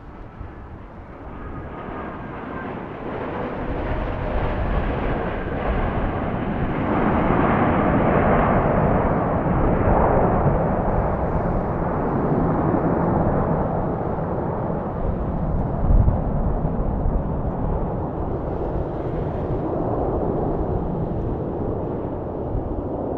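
Jet noise of an Airbus A330-200 with Rolls-Royce Trent 700 engines on landing. A faint whine grows into a loud, steady rumble that peaks about a third of the way in and then holds. A brief low thump comes about two-thirds of the way through.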